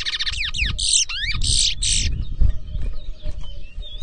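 A towa-towa finch sings a fast burst of whistled notes and trills in the first two seconds, then softer scattered chirps. A low crowd rumble runs underneath.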